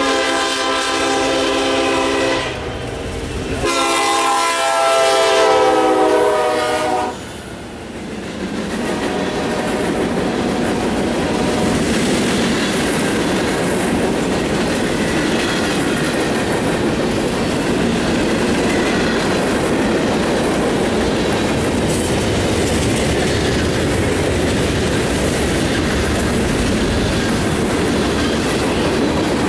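Freight train's diesel locomotive horn sounding two long blasts as it approaches. From about eight seconds in, the cars roll past with a steady rumble and clickety-clack of wheels on the rails.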